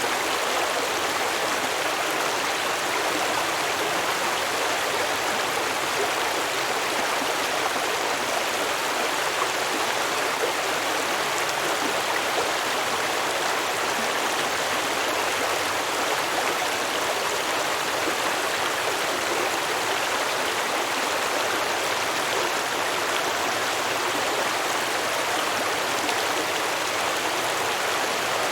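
Small stream babbling over rocks: a steady, even rush of flowing water.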